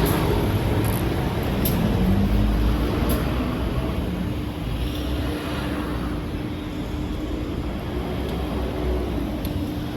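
Road traffic: a passing vehicle's noise fades over the first few seconds, leaving a steady traffic rumble with a faint engine hum.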